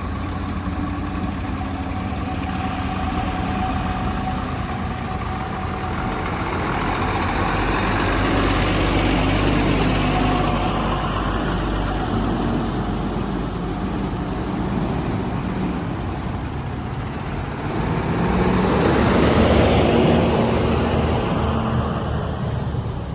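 Heavy diesel vehicle engines running steadily, with the sound swelling louder twice: about a third of the way in and again near the end.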